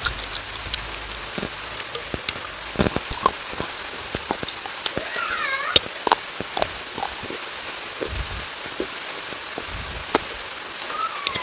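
Rain falling, with an even hiss and many irregular drops tapping. A short wavering call rises and falls about five seconds in.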